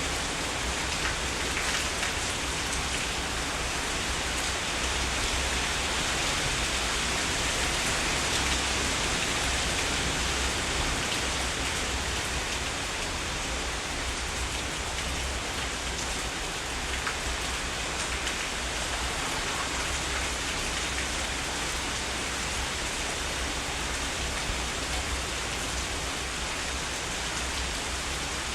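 Heavy rain falling steadily, an even hiss with the patter of individual drops.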